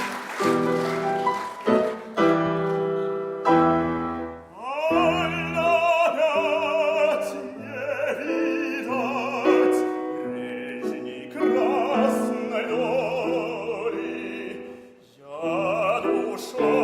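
Classical song with piano accompaniment: the piano plays alone for the first few seconds, then an operatic voice enters about four and a half seconds in, singing long notes with a wide vibrato over the piano.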